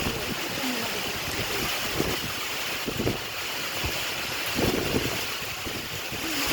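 Storm wind gusting and buffeting the microphone in irregular low rumbles, over a steady hiss of heavy rain.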